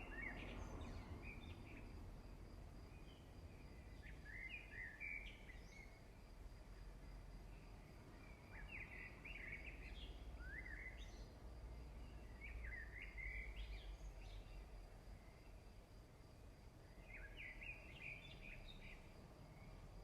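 Faint bird song: short chirping phrases repeating every few seconds over quiet background rumble.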